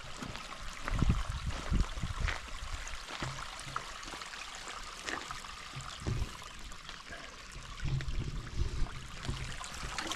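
A small stream trickling steadily over rocks, with scattered low thumps of footsteps on the rocky trail.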